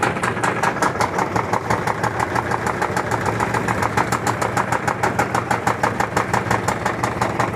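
Electrolux LT13B top-loading washing machine running with a rapid, even knocking from its suspension, about five or six knocks a second, over a low motor hum. The knocking comes from an unbalanced load, the tub sinking much further on one side.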